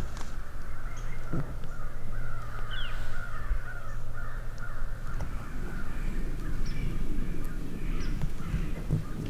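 Animals calling outdoors in a wavering, overlapping chorus, over a steady low rumble.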